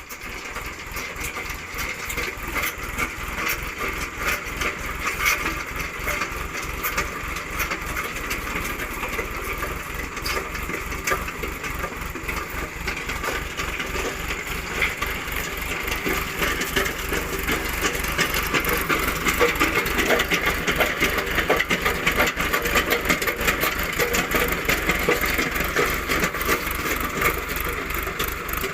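Tractor engine running a PTO-driven post hole digger auger, with a dense crackling and grinding throughout, louder in the second half.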